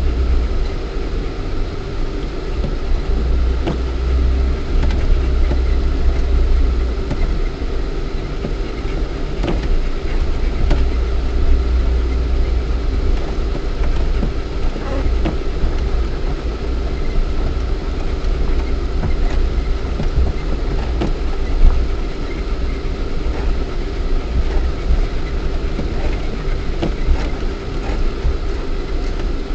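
Lada Niva 4x4's 1.7-litre four-cylinder petrol engine running while the car drives off-road, heard from inside the cabin as a deep steady rumble with a steady hum over it. Frequent small knocks and rattles from the body and suspension over rough ground, with one sharper knock a little over two-thirds of the way through.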